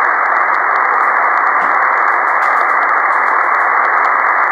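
Steady static hiss from a ham radio receiver in single-sideband mode between transmissions, the noise cut off sharply above and below the narrow voice passband, with no station coming through.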